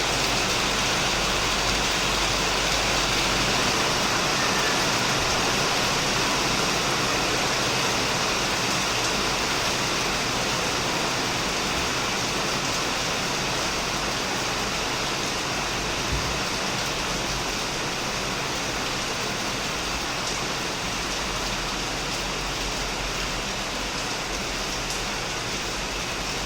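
Heavy rain falling steadily on a shed, an even hiss of drops without a break.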